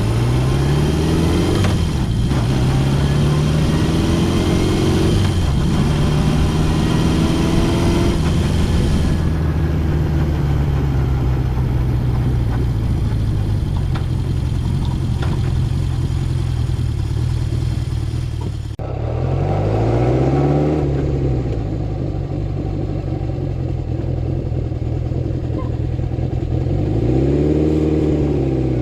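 Honda CB750 Four's inline-four engine running under way. Its revs rise and fall through gear changes for the first several seconds, then hold steady. About nineteen seconds in, the sound changes abruptly, and the revs swell and drop twice.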